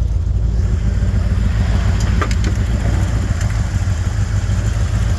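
1981 Ford Bronco's carbureted engine idling steadily while still cold after a cold start in freezing weather, with no choke to help it.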